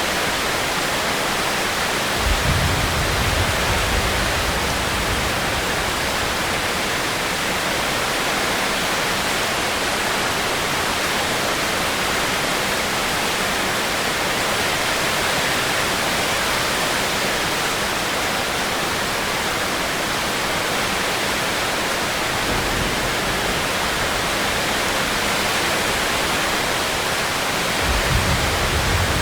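Heavy rain falling steadily as a dense, even hiss. Short deep rumbles come about two seconds in, again around twenty-two seconds, and near the end.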